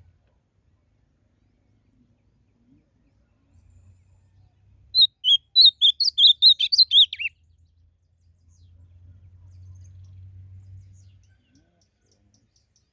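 Ultramarine grosbeak (azulão) singing one quick warbled phrase of about ten notes, a little over two seconds long, about five seconds in.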